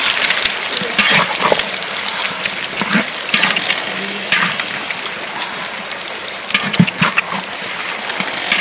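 Eggs frying in hot oil in a metal wok, a steady sizzle, with a metal ladle scraping and knocking against the pan at irregular moments as the eggs are stirred.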